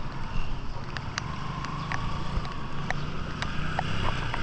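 Steady rush of heavy rain and running water with scattered sharp drip-like taps, and a faint engine drone that comes in about a second in and holds on.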